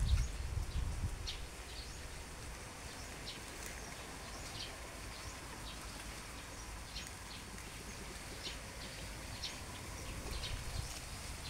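Small birds chirping now and then: short, high chirps scattered throughout over a faint steady outdoor background. A low rumble on the microphone in the first second or so.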